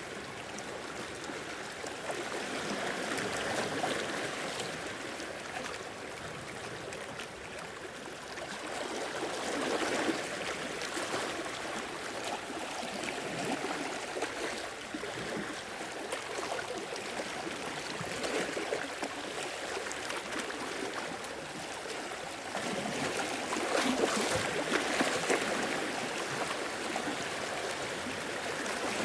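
Gentle sea waves washing and gurgling along the shore, a steady wash that swells louder about four times as waves come in.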